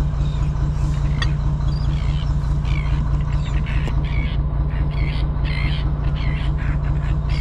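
Fishing boat's engine running steadily with a low drone. Short high-pitched calls come over it near the middle.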